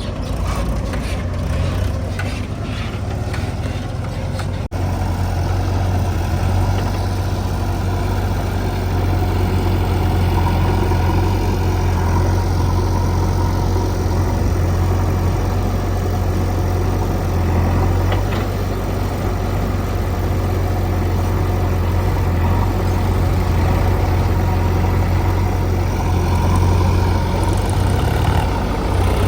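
Heavy diesel machinery engine running steadily with a deep low hum, with a sharp break about five seconds in after which it runs a little louder.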